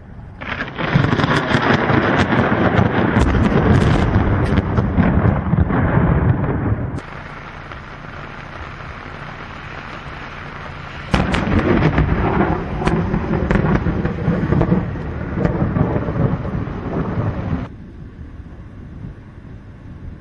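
Two long rolls of thunder with crackling, each lasting about six seconds and each cutting off abruptly, over a steady background of rain.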